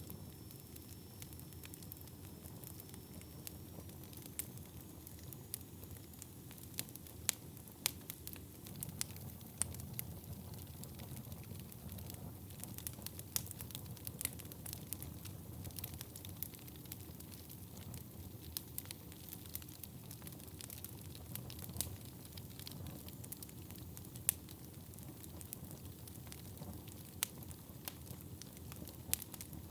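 Wood fire burning in a fireplace: a steady low rumble of flames with frequent irregular crackles and occasional sharper pops.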